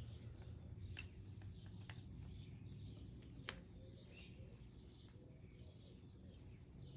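Faint birds chirping in the background, with a few small sharp clicks.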